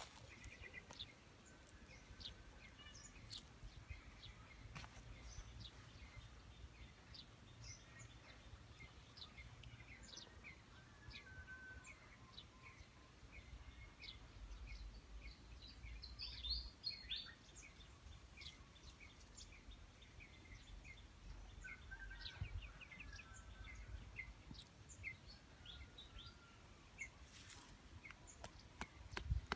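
Faint outdoor ambience with scattered small bird chirps and short calls throughout, and a few soft clicks near the end.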